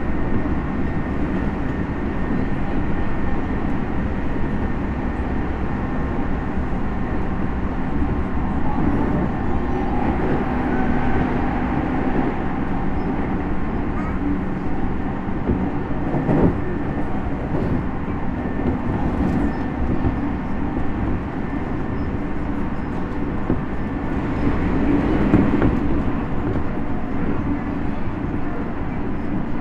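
Tokyu 5050 series 4000-subseries electric train running between stations, heard from inside the passenger car: a steady rumble of wheels on rail with faint steady motor tones.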